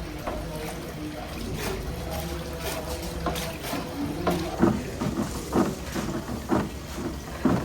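Workshop noise: a steady low machine hum, with a run of short sharp knocks in the second half.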